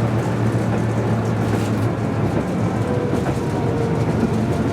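Tram running along its rails: a steady low hum under a constant rolling noise of wheels on track.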